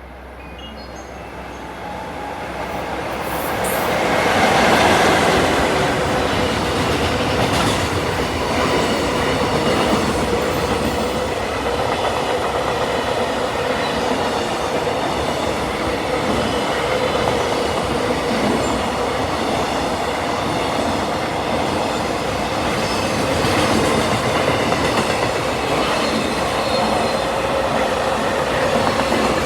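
EF66 electric locomotive and its freight wagons passing at speed: the rolling noise of steel wheels on rail builds over the first few seconds and then carries on steadily as the long train goes by, with a faint steady ringing tone running through it.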